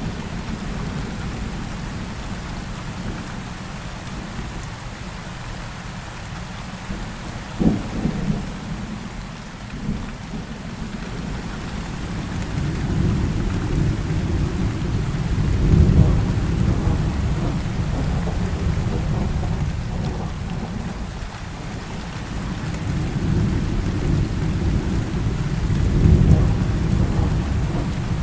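Heavy rain falling steadily with rolling thunder. A sharp crack comes about eight seconds in, and long low rumbles build and fade through the middle and again near the end.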